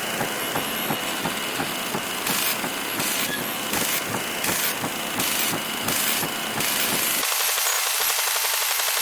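Harsh crackling static and buzz from a television with a poor signal. Through the middle a high hiss cuts in and out about twice a second, and about seven seconds in the low rumble drops out suddenly, leaving a thinner steady hiss.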